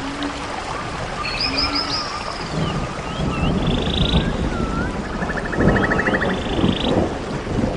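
Wild birds calling: a run of short high chirps, swooping whistles and rapid trills, over a steady rushing background of outdoor noise with a few low gusts.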